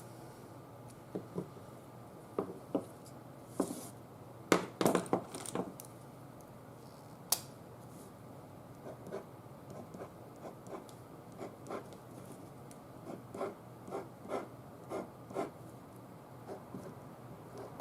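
Craft tools and paper being handled on a tabletop: scattered light taps and knocks, a cluster of louder knocks about five seconds in, a single sharp click a little after seven seconds, then a run of softer taps about two a second.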